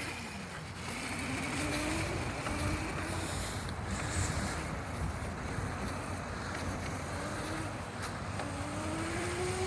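Razor MX350 electric dirt bike's motor and chain drive whining as it accelerates, the whine rising in pitch several times and most clearly near the end, under a steady rush of wind on the microphone and tyres on dirt.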